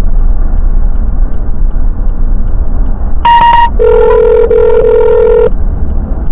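Steady low road rumble inside a moving vehicle. About three seconds in, a short beep sounds, then a telephone ringing tone of under two seconds, as a call to 911 is placed.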